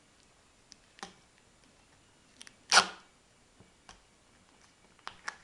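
Adhesive tape pulled off the roll in one short, loud rip near the middle, with a few light clicks and taps from handling the tape and plastic straws before and after.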